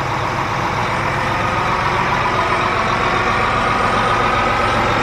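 Farm tractor engine running steadily while pulling a disc harrow, with a thin whine that rises slightly in pitch from about a second and a half in.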